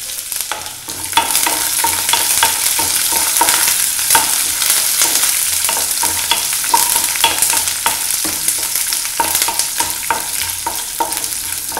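Tempering of curry leaves, chillies, ginger, mustard seeds and urad dal sizzling in hot oil in a non-stick kadai, with a steady hiss. A wooden spatula stirs it, scraping and knocking against the pan many times.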